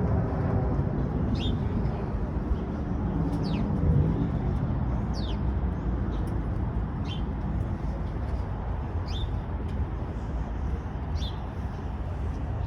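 Low rumble of car engines, louder near the start and again about four seconds in, under a short high chirp that falls in pitch and repeats about every two seconds, like a bird's call.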